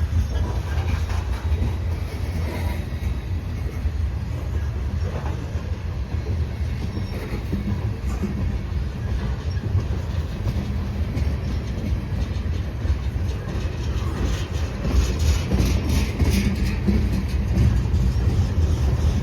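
Freight cars rolling past, a steady low rumble of wheels on rail. About fourteen seconds in, quick clicking of wheels over rail joints joins in and the sound grows a little louder.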